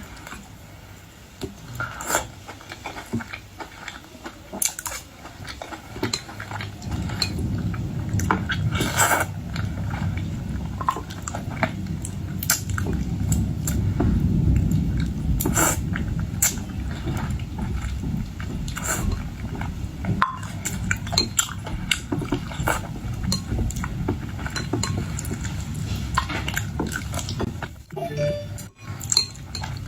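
Dishes and cutlery clinking and tapping, many short sharp clicks at irregular intervals. From about seven seconds in there is a steady low rumble beneath them.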